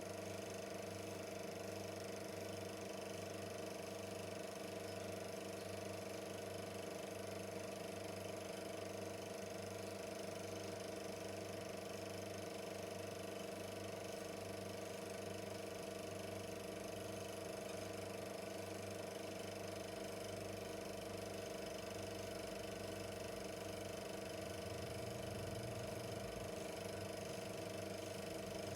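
Super 8 film projector running: a steady mechanical hum from its motor and film transport.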